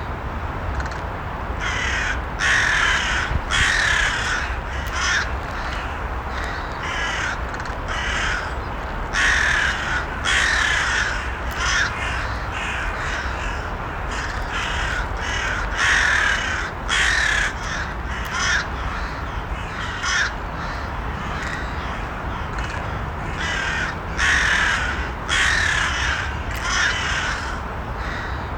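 Several crows cawing again and again in short runs of harsh calls, over a steady low background rumble.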